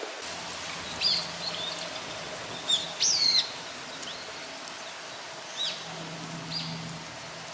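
Wild bird calling in short, high calls that swoop up and down in pitch, the loudest run about three seconds in, over a steady background hiss.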